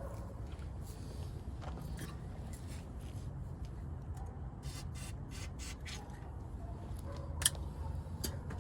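Scattered light clicks and taps over a steady low hum, with one sharper click about seven and a half seconds in.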